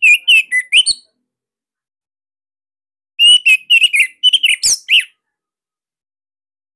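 Orange-headed thrush (anis merah) singing: two short phrases of rapid whistled notes that sweep up and down in pitch, one ending about a second in and another from about three to five seconds in.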